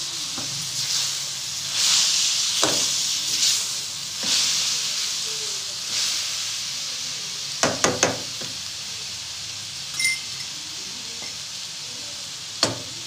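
Fenugreek leaves, potatoes and fresh tomato pieces sizzling in a pan as a steel spoon stirs them, the sizzle swelling each time the vegetables are turned. A quick run of three sharp clinks of the spoon against the pan comes about eight seconds in, and another clink comes near the end.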